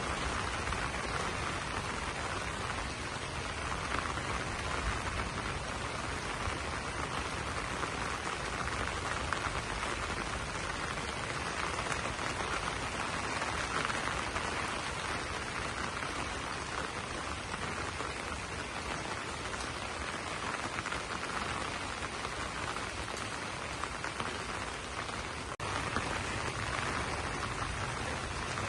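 Steady rain pattering on broad banana leaves, an even hiss of drops, with a momentary dropout near the end.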